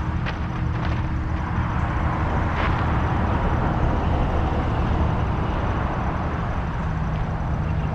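Steady motor vehicle rumble and road noise, like a car driving.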